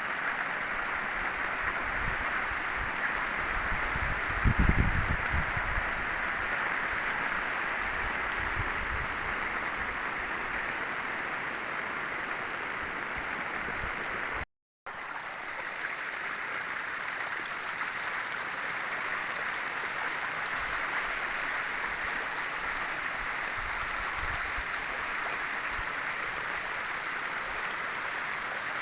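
Heavy rain in a downpour: a steady rush of falling and running water. A brief low rumble comes about five seconds in, and the sound drops out for a moment near the middle.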